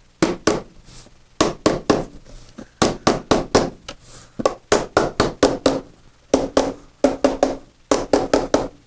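Lid being tapped and pressed down onto a tub of gesso to seal it: a long run of sharp taps and knocks in quick clusters.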